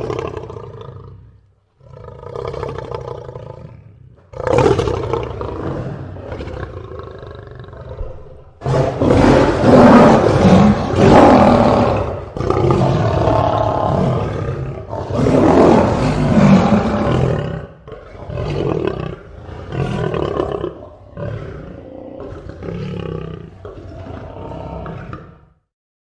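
Lion roaring: a bout of long, deep roars, loudest in the middle, followed by a series of shorter grunting calls that grow softer and stop just before the end.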